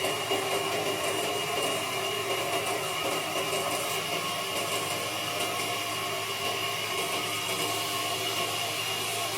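Wood lathe running steadily, a constant motor hum with a steady high whine over an even noise.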